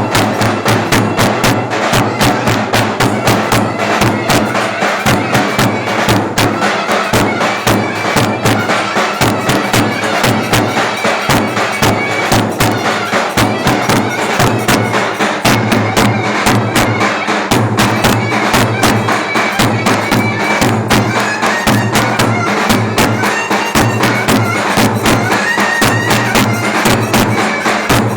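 Turkish clarinet playing a folk dance tune over a davul drum keeping a fast, steady beat.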